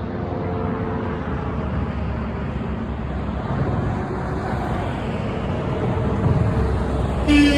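Truck passing on the road, its engine and tyre noise building, then a loud truck horn blast sounds right at the end.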